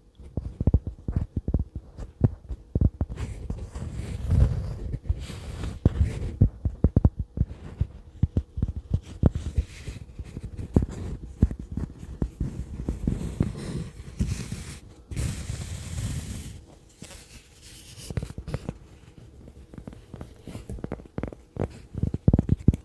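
Fingertips tapping close to a sensitive microphone in quick, irregular runs of dull taps, with a brief stretch of hissy rubbing noise about fifteen seconds in.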